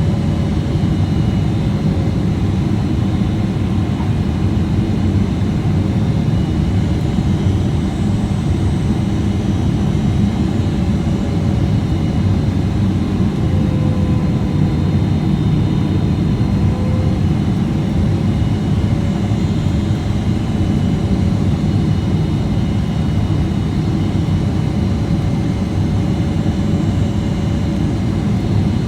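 Steady in-cabin rumble of a Boeing 777-300ER in flight: GE90 engine noise and airflow, with faint steady tones riding over it.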